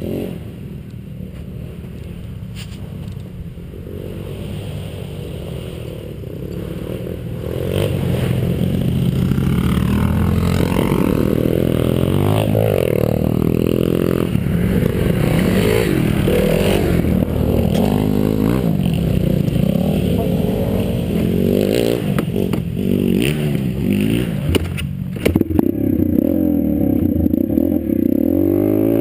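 Pit bike engine running, quieter at first, then louder from about eight seconds in, its pitch rising and falling over and over as it is revved and ridden.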